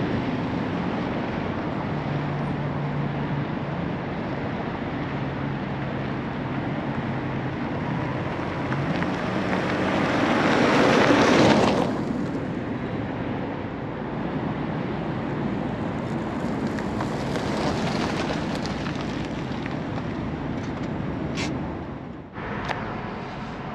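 Subaru Legacy Turbo wagon's turbocharged EJ22T flat-four driving around an open lot: a steady engine note, then rising as it accelerates, with the loudest moment as it passes close about eleven seconds in and a smaller swell a few seconds later. Wind on the microphone throughout.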